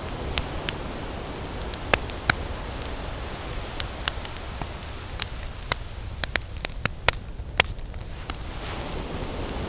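Wood campfire crackling: irregular sharp pops and snaps, several louder than the rest, over a steady low rumble.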